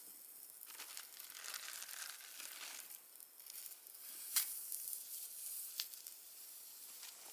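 Crinkling and rustling as something is handled, with two sharp clicks about four and a half and six seconds in.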